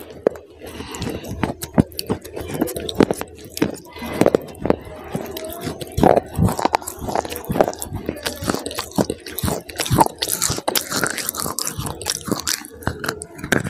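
Close-miked biting and chewing of hard, chalk-like sticks: a steady run of sharp, irregular crunches.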